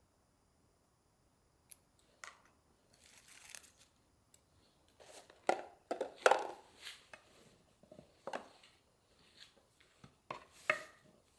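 Kitchen handling noises: a run of short, irregular clicks, rustles and crinkles, starting after a moment of quiet, busiest about halfway through and again near the end.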